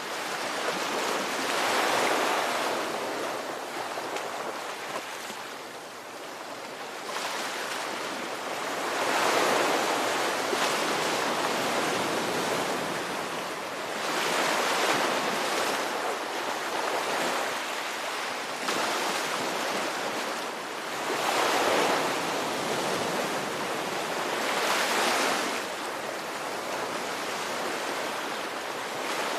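Ocean waves breaking on a shore, a continuous wash of surf that swells and recedes, each wave building to a peak every few seconds.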